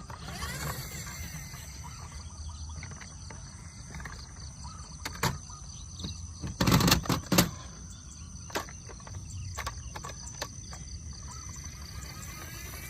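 Steady outdoor background noise with a constant high tone and a low hum, broken by several sharp clicks and knocks, the loudest a short cluster about seven seconds in.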